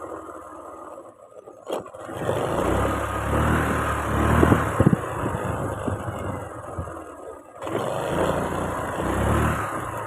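Motorcycle engine running under way, with wind and road noise; a sharp click comes just before two seconds in, and the sound dips briefly for a moment about three-quarters through before picking up again.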